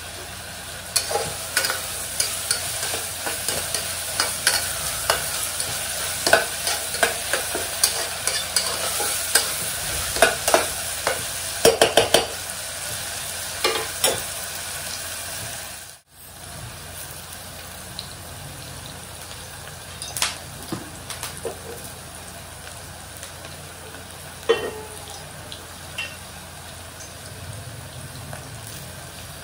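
Food sizzling in hot oil in a pressure cooker while a spatula stirs and scrapes against the metal, with many sharp clicks in the first half. After a sudden cut about halfway through, the sizzle goes on more quietly with only occasional taps.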